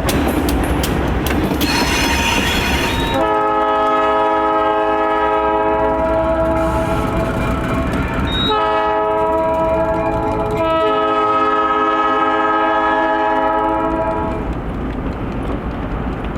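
Diesel freight locomotive's multi-note chord horn blowing three blasts, long, short, then long, over the rumble of the moving train. Before the horn, wheels click on the rail joints and briefly squeal.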